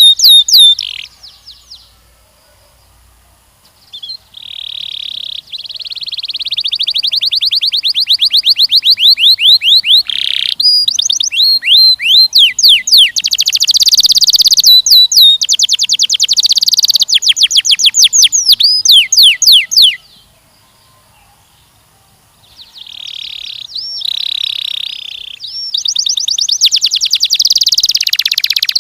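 Canary singing long, fast trills and rolling runs of repeated high notes, in phrases broken by two pauses of about two seconds: one near the start and one about two-thirds of the way through.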